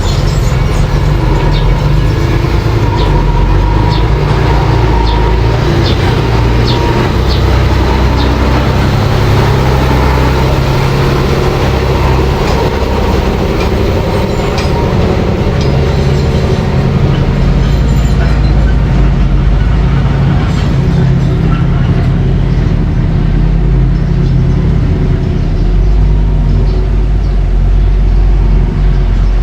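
Engine of a mini bulldozer running steadily, with scattered clanks in the first several seconds.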